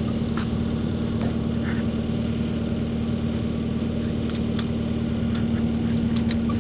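Engine idling steadily with a constant hum, with a few light clicks now and then.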